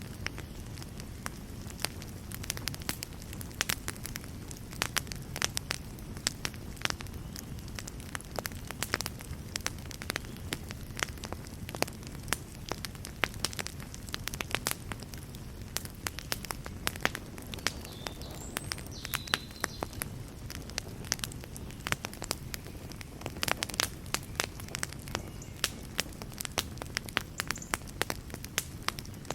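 Fireplace fire burning, with frequent irregular sharp crackles and pops over a steady low rumble.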